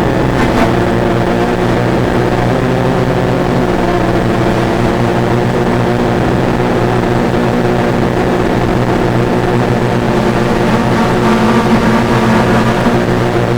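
Multirotor drone's propellers whirring steadily in flight, a constant multi-toned hum over rushing air.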